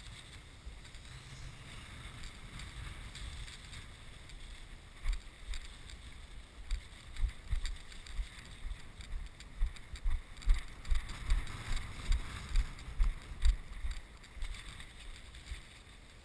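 Wind buffeting a camera microphone in a strong, gusty wind, with a constant hiss and low rumbling thumps. The thumps grow stronger and more frequent about five seconds in.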